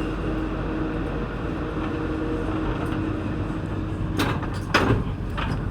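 Sliding passenger doors of an NS-16 metro train closing over the standing train's steady hum: a low steady tone until about four seconds in, then two or three sharp clunks as the doors shut.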